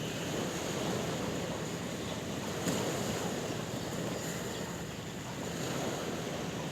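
Sea waves washing on a shore: a steady rush of surf, with a short sharp tick a little under three seconds in.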